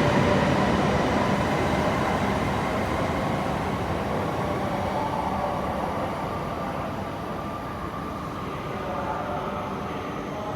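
Running noise heard inside an E7 series Shinkansen car: a steady rumble and hiss from the Mitsubishi IGBT VVVF drive and running gear, with faint steady tones, slowly getting quieter across the span.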